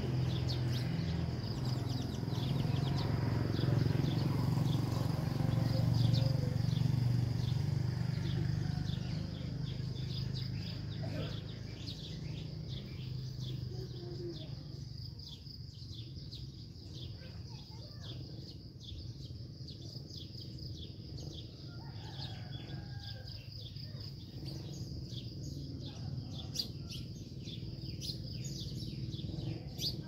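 Small birds chirping in many short, repeated calls, over a steady high-pitched whine. A low hum is louder in the first third and then fades.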